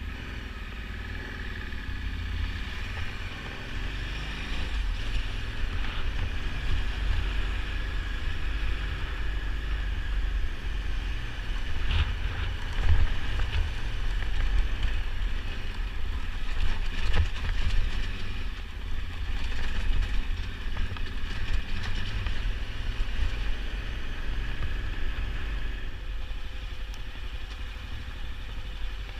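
Motorcycle engine running under way on a dirt track, from a KTM 990 Adventure's V-twin, with heavy rumble at the bottom and a few sharp knocks about twelve and seventeen seconds in.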